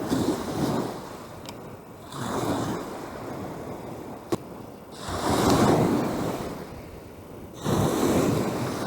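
Lake waves washing onto the shore in surges every two to three seconds on a rough, windy lake, with wind buffeting the microphone. A single sharp click sounds a little past four seconds in.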